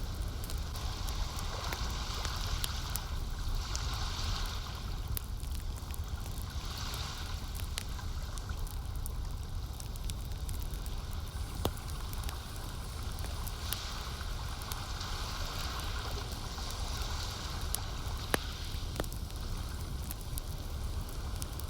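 Lake water lapping in slow swells every few seconds over a low rumble, with the scattered sharp pops and crackles of a wood campfire, two of them louder about 12 and 18 seconds in.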